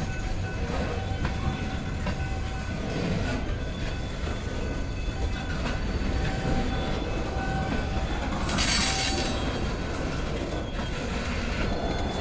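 Freight train of boxcars rolling slowly past: a steady rumble of steel wheels on the rails, with clickety-clack and wheels squealing now and then. A short hiss comes about eight and a half seconds in.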